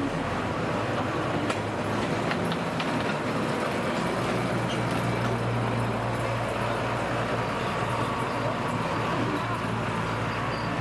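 Small forest-railway diesel locomotive engine running steadily during a run-around move, its low hum growing stronger about four seconds in.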